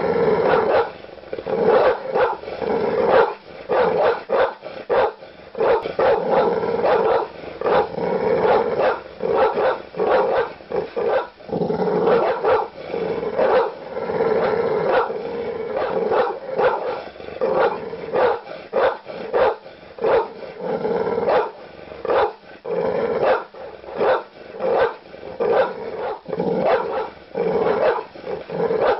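Large dog barking aggressively: deep, loud barks in quick, continuous bursts, several a second, with hardly a pause.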